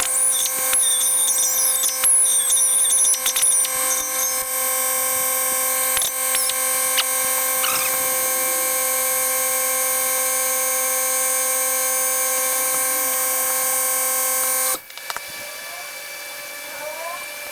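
Electric angle grinder running with a steady high whine, the disc squealing against steel in the first few seconds. The sound cuts off suddenly about fifteen seconds in.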